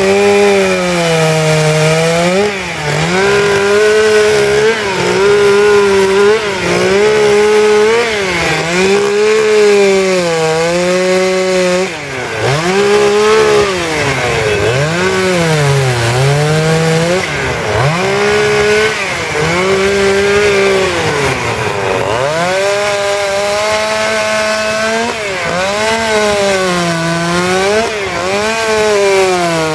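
Petrol chainsaw carving wood, its engine revving up and dropping back again and again, every second or two, as the cuts are made.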